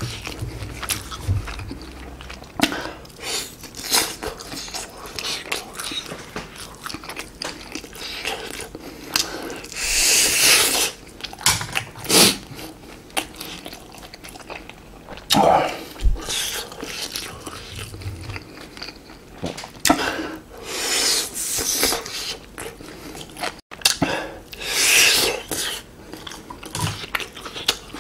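Close-miked chewing and biting of grilled chicken skewer meat (Korean dakkochi), many small wet clicks with several louder bursts lasting up to about a second.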